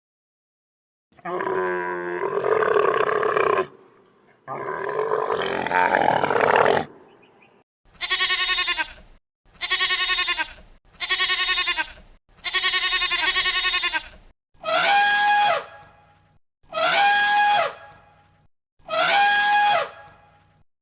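A series of animal calls: two long calls, then four shorter calls in quick succession, then three calls with falling pitch about two seconds apart.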